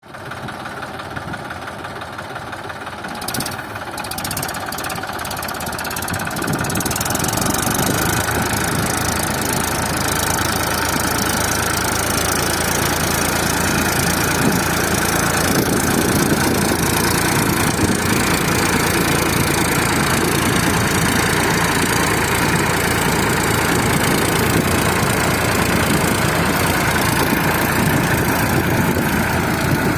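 Eicher 380 4WD tractor's diesel engine running, growing louder over the first seven seconds or so and then running steadily.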